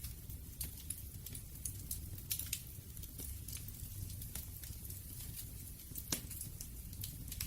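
Campfire burning with a low steady rumble and irregular sharp crackles and pops, one louder pop about six seconds in.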